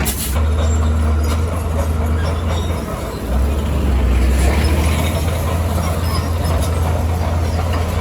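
Heavy earthmoving machine's diesel engine running with a steady low rumble and mechanical rattle, easing off briefly about three seconds in before picking up again.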